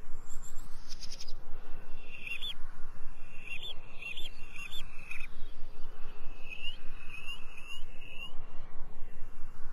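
Birds chirping in short, curved calls over a steady pulse of about four beats a second.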